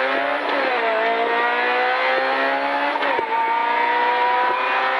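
Rally car engine at full throttle, heard from inside the cabin, accelerating hard down a straight with a slowly rising pitch. It changes up twice, about half a second in and again at about three seconds, each shift a sudden drop in pitch before it climbs again.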